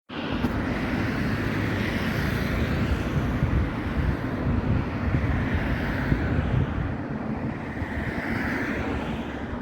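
Wind buffeting the microphone outdoors, a gusty low rumble over a rushing hiss that swells and fades a few times.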